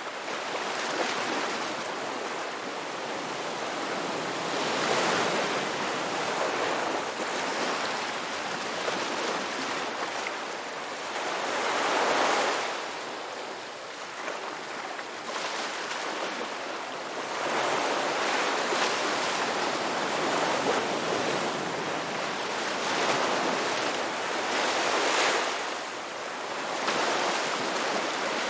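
Ocean waves breaking and washing onto a beach, swelling and easing back in slow surges every several seconds.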